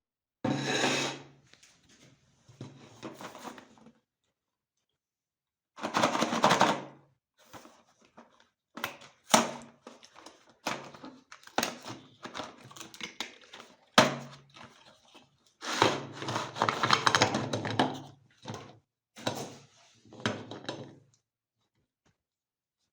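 Meat grinder crushing Oreo cookies, heard as a string of short bursts of cracking and crunching clicks, some over a steady low hum, cut apart by abrupt silences.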